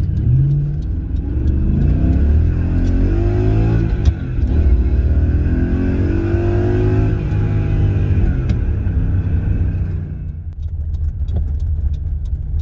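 BMW E23's swapped M60 V8 accelerating under load: revs climb, drop briefly about four seconds in as a gear is changed, climb again, then fall away as the throttle eases off near the end.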